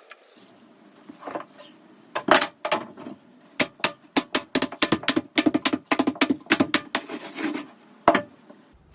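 A rapid, irregular run of hard clicks and clinks, from tiling tools and pieces knocking against porcelain floor tile, ending on one sharp click.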